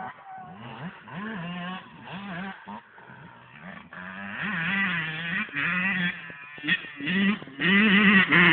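Two-stroke dirt bike engine revving, its pitch rising and falling with the throttle in short spurts and growing louder near the end.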